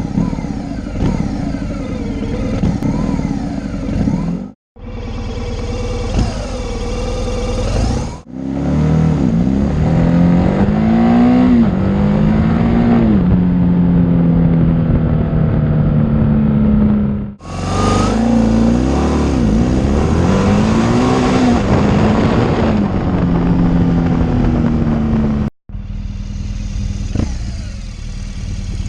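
BMW R1200 GS boxer-twin engine accelerating hard through the gears: the revs climb and drop back at each upshift, then hold steady at speed. The sound comes as several separate runs, each cut off suddenly.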